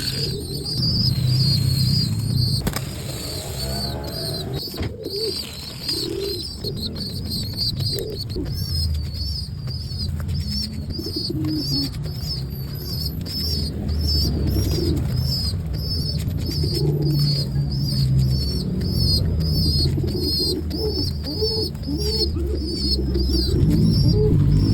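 Hungry pigeon squab begging to be fed: a long run of short, high, wavering squeaks, several a second, over low-pitched fluttering of wings.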